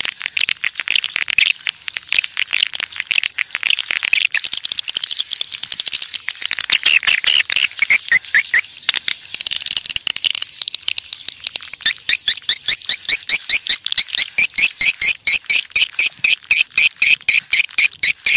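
Swiftlets calling: a dense chatter of dry, clicking twitters. About halfway through it becomes a quick, regular run of loud, repeated chirps. This is a swiftlet calling sound, the kind of recording used to call swiftlets in.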